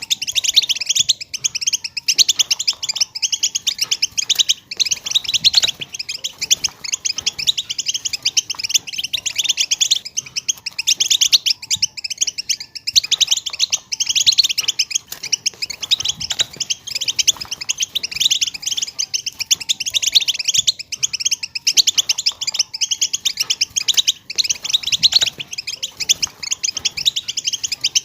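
A group of female European goldfinches calling together in a dense, unbroken chorus of rapid high chirps and twitters.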